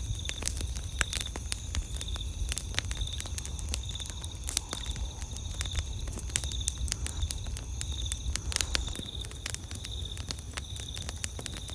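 Wood fire crackling with irregular sharp pops and snaps, over a steady low rumble. Insects chirp in a regular pulsing rhythm behind it.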